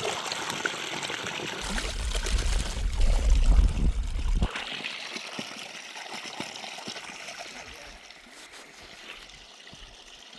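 Water running and trickling, growing fainter toward the end, with a low rumble from about two to four and a half seconds in.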